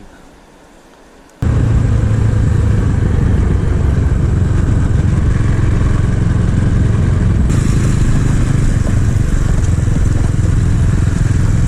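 Small 250 cc motorcycle running steadily on the move, engine note mixed with wind and road noise; it cuts in suddenly about a second and a half in after a quiet moment.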